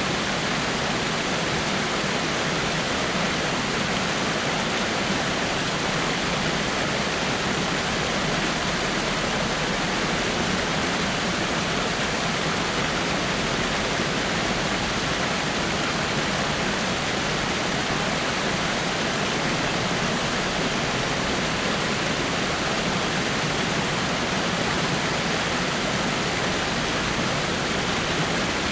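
Water falling over rocks in a small waterfall: a steady, even rush with no change.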